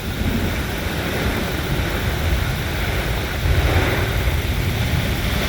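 Squall wind of about 60 mph with driving rain, buffeting the microphone in a heavy low rumble over a steady hiss, gusting a little louder past the halfway point.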